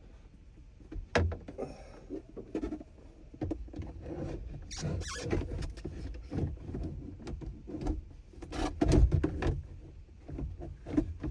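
Hands working plastic dashboard parts and the instrument cluster into place: irregular clicks, scrapes and small squeaks of plastic, with a louder cluster of knocks about nine seconds in.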